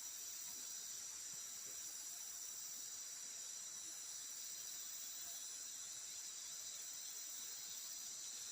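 A steady, high-pitched chorus of forest insects chirring without a break.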